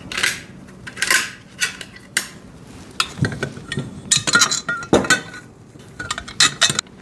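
Steel frame pieces and bolts of a welding table clinking and knocking together as they are handled and bolted up, in irregular metallic clinks with a brief ring on some.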